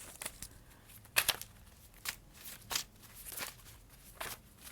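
Tarot deck being shuffled and handled: a string of sharp card snaps and slaps, the loudest about a second in.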